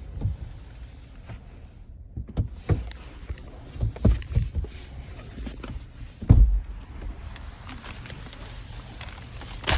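A steady low rumble with scattered thumps and knocks, the loudest about six and a half seconds in.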